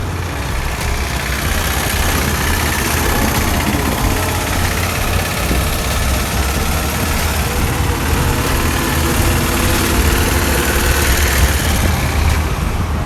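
Steady motor-vehicle and road noise on a scooter ride in traffic, with a constant low rumble throughout.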